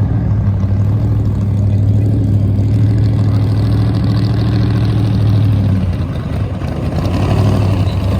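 Engine and road noise of a 1989 GMC R3500 crew cab ramp truck under way, heard inside the cab: a steady low engine drone that eases off about six seconds in and builds again near the end.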